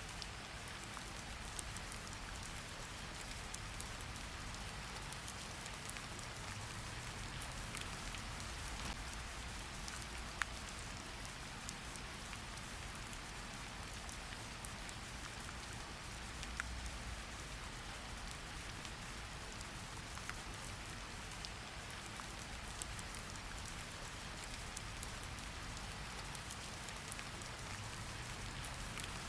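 Steady rain falling, an even hiss with scattered sharper drop ticks, a couple of them louder, about ten and sixteen seconds in.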